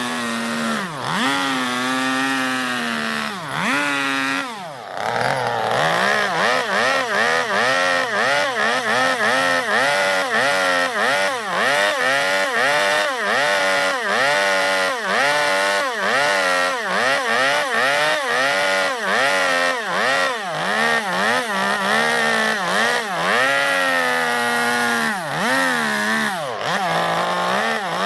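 Two-stroke chainsaw cutting into zelkova wood, its engine note rising and falling over and over, about twice a second, as the bar is worked into the block to hollow out a bowl. In the first few seconds the revs swing more slowly and drop briefly about four seconds in.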